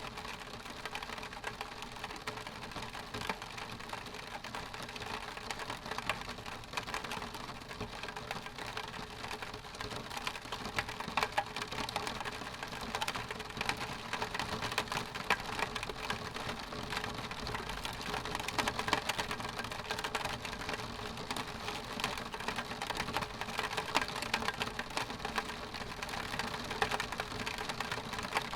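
Rain falling on a window pane: a dense, irregular run of small drop hits on the glass, getting a little heavier after about ten seconds.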